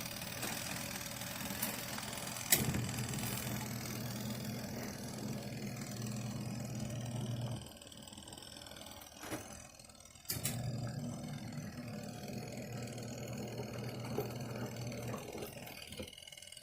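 Small electric motor of a portable twin-tub washing machine humming in runs of about five seconds, with pauses of about three seconds between them and a click as each run starts. This on-off pattern is typical of the wash agitator reversing direction during a wash cycle.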